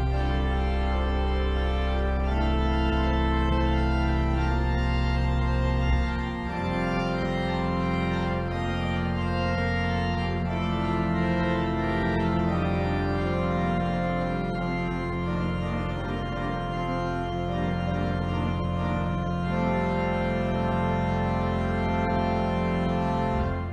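Organ playing slow, sustained chords over a held bass note; the bass moves to a new note about six seconds in, and the final chord stops at the end.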